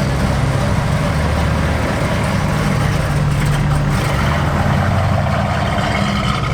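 A muscle car's V8 engine running at low speed with a steady, low exhaust note and no revving.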